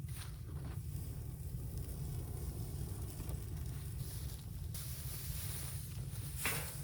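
Wind rumbling steadily on the microphone outdoors, with a few faint knocks or rustles, the clearest near the end.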